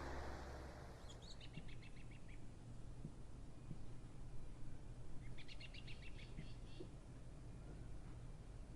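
A vehicle's noise fades away in the first second. Then a bird gives two quick runs of short, high chirps, each lasting about a second, over a faint steady low city hum.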